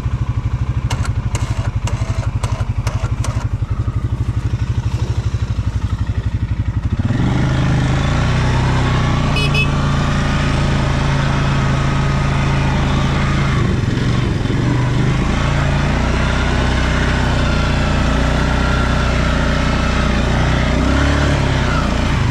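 Stels Leopard 650YL quad's engine running under load as the quad pushes through deep snow, with a few light knocks early on. About seven seconds in, the engine is opened up and runs louder, with a whine that rises and falls, labouring through the snow.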